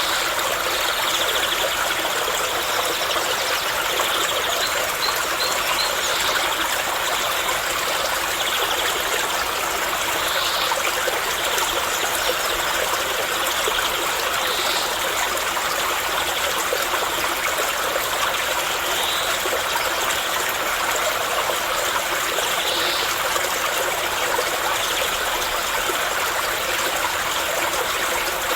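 Steady flowing water of a stream, an even rushing trickle that does not change.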